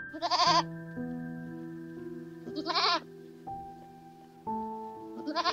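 A goat bleating three times, about two and a half seconds apart. Each call lasts about half a second and has a quavering pitch. Soft background music with long held notes plays underneath.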